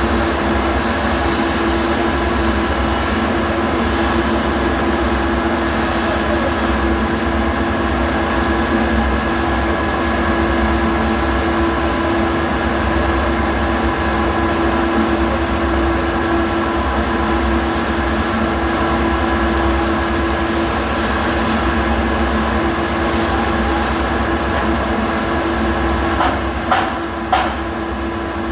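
MIG welding arc running steadily with a constant hum, then a few sharp metallic knocks near the end.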